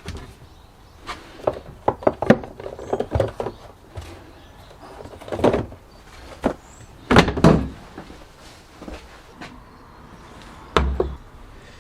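Workshop handling sounds: irregular clicks, taps and knocks of parts and tools being picked up and set down, with a few heavier thumps, about five and a half, seven and eleven seconds in.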